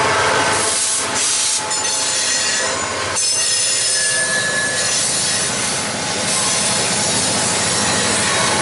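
Railroad cars rolling past, steel wheels on the rail giving a steady rolling noise with several high-pitched squealing tones that come and go.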